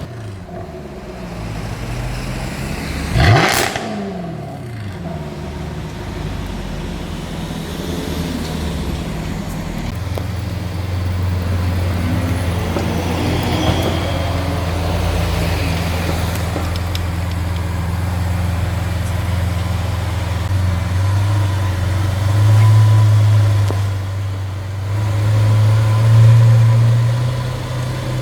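Supercar engines: a sharp rev that rises and falls in pitch about three seconds in, then a steady low exhaust drone of cars running nearby, which swells twice near the end as they rev up.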